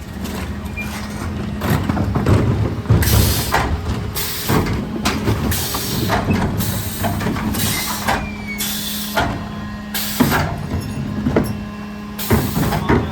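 Mercedes Econic refuse truck working at the bins: a steady hum from the running engine and hydraulics, broken by about eight short, sharp hisses of air and scattered knocks.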